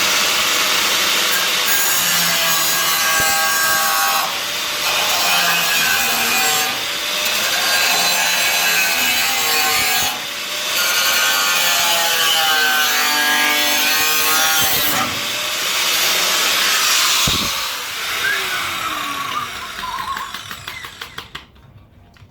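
Handheld power tool cutting through sheet steel of a car floor panel, running loud with its pitch wavering under load and easing off briefly a few times. Near the end it is switched off and spins down, its pitch falling.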